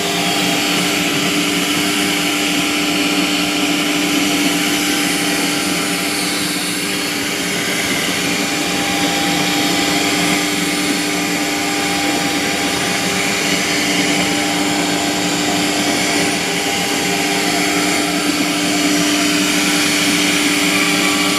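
CNC router with an 8×4 bed running, its spindle giving a steady hum of several held tones over a broad hiss that barely changes throughout.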